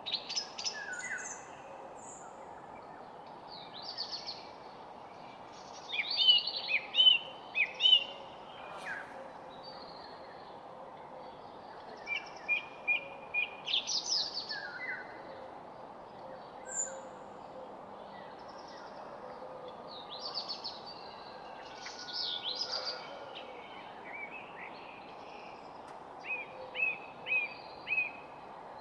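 Several songbirds singing and chirping in short, scattered phrases and quick trills, over a steady background hiss.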